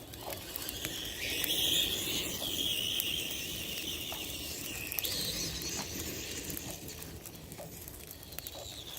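Bonfire burning with scattered crackles and pops and a hiss that swells for a few seconds after fresh fuel has been thrown on.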